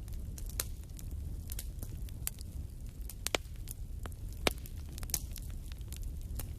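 Wood fire burning in a fireplace: a steady low rumble of the flames with irregular sharp crackles and pops, two louder pops around the middle.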